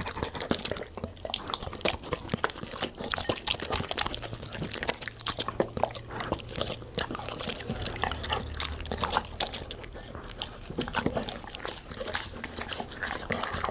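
Golden retrievers chewing and eating food: a steady stream of sharp, irregular crunches and mouth smacks.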